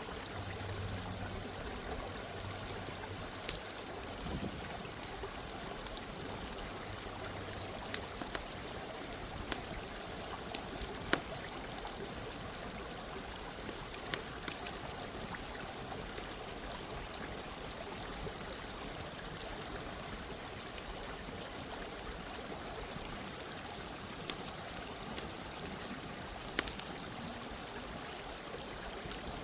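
A stream of running water rushing steadily, with a campfire crackling over it in sharp, irregular pops. A faint low hum sits under it for the first several seconds.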